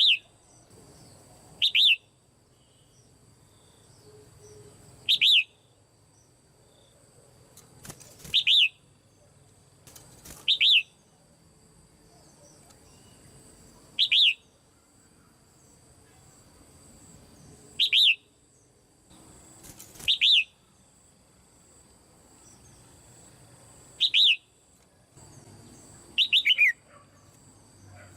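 Caged female red-whiskered bulbul calling: a short call, dropping in pitch, repeated about ten times, every two to four seconds.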